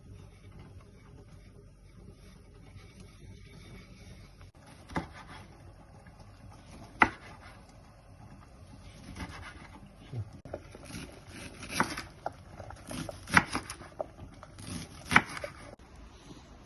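Hard objects being handled on a surface: a few sharp knocks, with rubbing and scraping in between during the second half.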